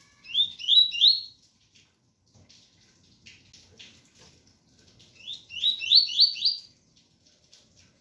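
Double-collared seedeater (coleiro) singing its 'tui-tui' song in two short phrases of quick rising whistled notes: three notes about half a second in and four more about five seconds in. Faint rain noise runs underneath.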